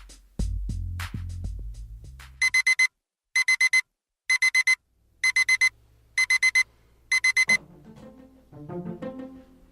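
Digital alarm clock beeping: six groups of four quick high beeps, evenly spaced about a second apart. Before it a beat-driven music track fades out, and near the end plucked string music begins.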